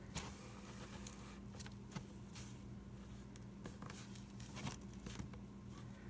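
Faint handling of paper pages: scattered soft rustles and light taps, over a steady low hum.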